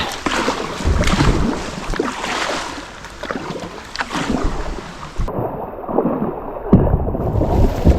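Sit-on-top kayak being paddled down a shallow river: uneven paddle strokes splash in the water over a steady rush of moving water, with wind buffeting the microphone.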